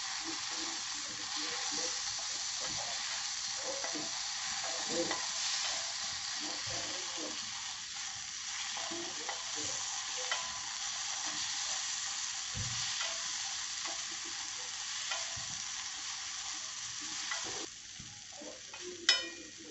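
Beaten eggs with onion and tomato sizzling on a hot tawa while a spatula stirs and scrapes them together. The sizzle falls away near the end, and a sharp metal clink follows.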